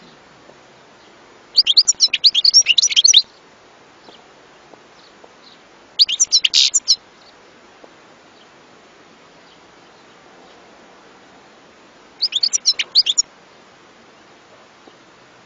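European goldfinch singing in three short bursts of rapid, high twittering notes, each about one to one and a half seconds long, a few seconds apart.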